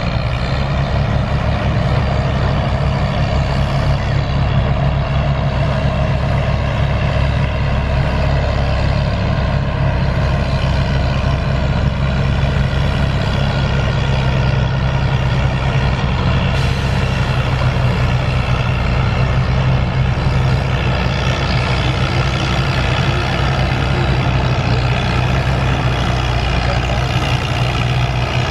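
Allis-Chalmers WD-45 tractor engine running steadily at the hook-up for a tractor pull.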